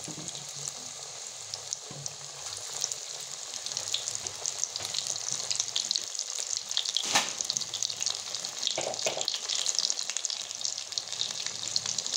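Egg pakoras deep-frying in hot oil, a steady sizzle and crackle that grows louder a few seconds in. There is one sharp click about halfway through.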